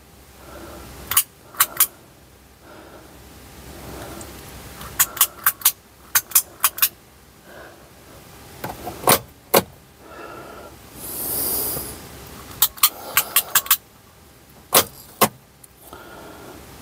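Sharp clicks and clacks from handling the car's dip-switch wiring and connectors, mostly in quick groups of two to five, with a short hiss about eleven seconds in.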